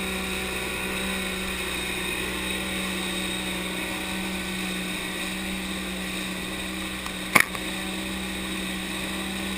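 Outboard motor of a Streaker 4850 Navigator boat running at a steady speed, with one sharp knock about seven seconds in.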